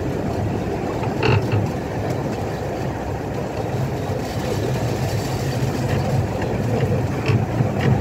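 Miniature steam train rolling along the track, heard from the riding car: a steady rumble of wheels on rail, with a few sharp clicks, one about a second in and two near the end.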